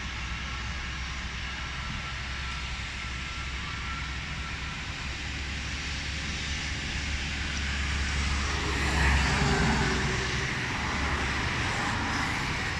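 Airliner engine noise, growing louder and peaking about nine seconds in, over a steady low rumble.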